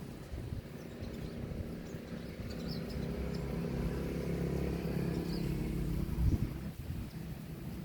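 A motor vehicle's engine hum that grows louder over the first few seconds and drops away about six seconds in, with a few faint high bird chirps.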